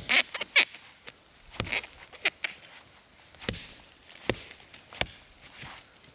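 Wood being chopped: irregular sharp strikes, one every half second to a second, with a brief scraping rustle near the start.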